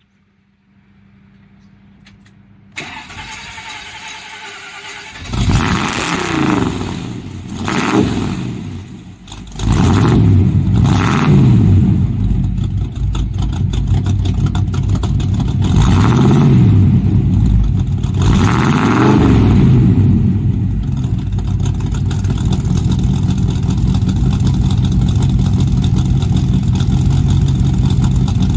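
A 1957 Chevy's bored-out 283 small-block V8, breathing through headers and 2.5-inch straight pipes with performance mufflers, is cranked and catches about five seconds in. It is revved about five times, then settles into a steady idle.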